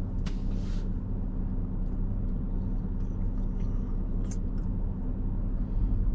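Car engine idling while stopped, a steady low hum heard from inside the cabin. A brief hiss comes near the start and a single click about four seconds in.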